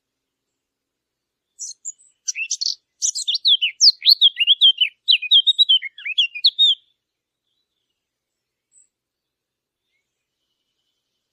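Fig bird (عصفور التين) singing one rapid, varied warbling phrase of high notes that lasts about five seconds, starting a little under two seconds in.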